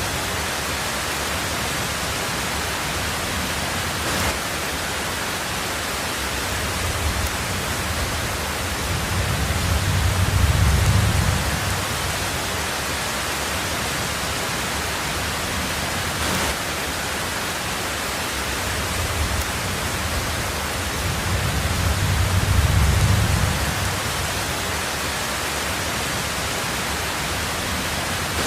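Heavy rain falling steadily on a tin roof. A low rumble of thunder swells and fades twice, about ten seconds in and again past twenty seconds.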